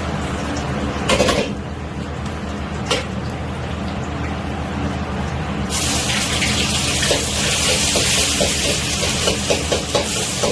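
A kitchen tap is turned on a little over halfway through and water runs steadily, with light clattering of things being rinsed under it. Before that come two sharp knocks over a steady low hum.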